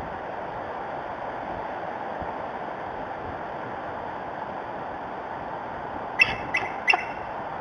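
Steady wind noise on the nest-cam microphone, then, about six seconds in, three short high chirping calls in quick succession from a bald eagle.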